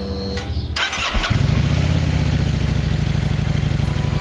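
Kawasaki Vulcan 900 Classic motorcycle's V-twin engine. A sharp burst of noise comes about a second in, then the engine runs loud and steady.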